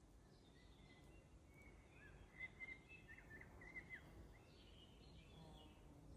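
A songbird singing faintly: scattered high notes, then a quick phrase of short chirps in the middle, over a low steady background rumble. A fly's low buzz comes in near the end.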